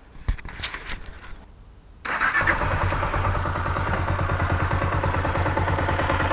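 Honda CG125's single-cylinder four-stroke engine: a short clatter in the first second, then the engine catches suddenly about two seconds in and runs on steadily with an even pulse. The bike starts and runs after its carburettor has been cleaned, curing its failure to start.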